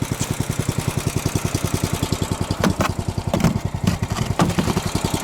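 Small engine of a motorised snow tow unit idling as it warms up: a steady, even putter of about ten beats a second. A few sharp knocks and clatters come over it in the middle.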